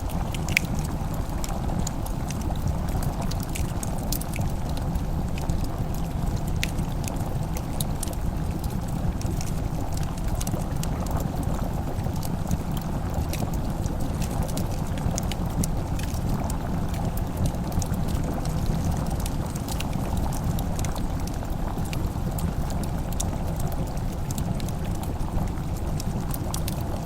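Fireplace crackling, with scattered small pops and snaps over a steady low rushing background.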